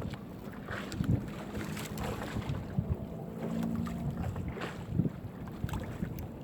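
A crab gill net being hauled by hand aboard a small fishing boat: irregular knocks and rustling with a faint low hum underneath, and wind on the microphone.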